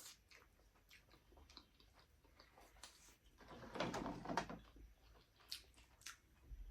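Close-up eating sounds of a person chewing chicken momo and noodles: soft wet chewing and small mouth clicks, with a louder stretch of chewing about four seconds in.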